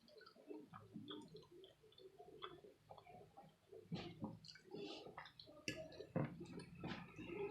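Chewing and mouth sounds of someone eating creamy shrimp Alfredo pasta: irregular soft smacks and clicks, a little louder from about four seconds in.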